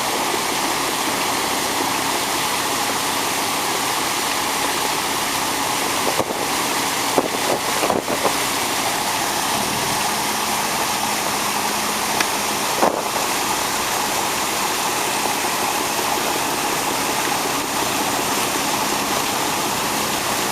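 Steady rushing noise of water and wind aboard a moving small boat. A few brief knocks come about six to eight seconds in and again about thirteen seconds in.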